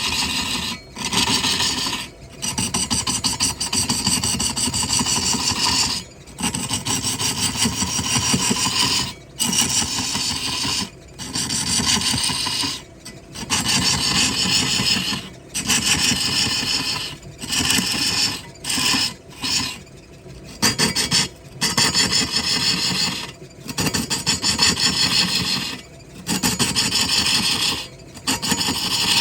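A turning tool cutting into wood on a spinning lathe gives a harsh, steady rasping scrape. It breaks off briefly every second or two as the tool lifts and comes back.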